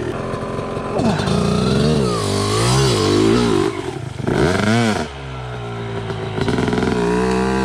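Two-stroke dirt bike engine revving up and down in repeated throttle surges while climbing a steep trail, easing to a lower, steadier note about five seconds in before picking up again.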